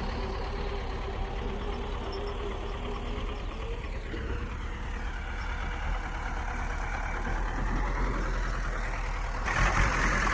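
Heavy diesel engine of earthmoving machinery running, its pitch sweeping down and back up from about four seconds in. Near the end it gets suddenly louder with a harsh rush of noise.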